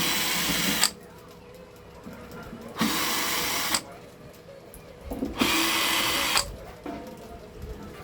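A small power tool runs in three short bursts of about a second each, stopping in between.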